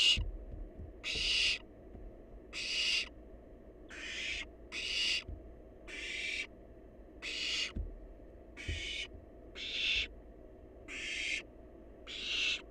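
Barn owl nestling giving harsh hissing calls, about a dozen short hisses at roughly one a second.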